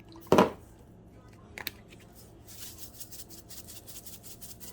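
Spice shaker being handled and shaken over a bowl: one loud short rattle about a third of a second in, a sharp click, then faint quick shaking as cumin is sprinkled.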